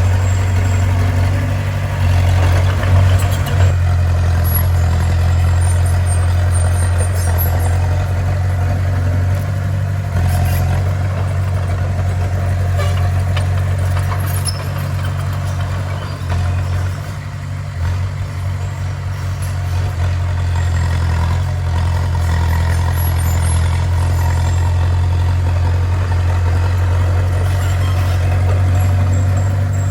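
Heavy diesel engine of a bulldozer running steadily with a low drone, easing off briefly a little past halfway.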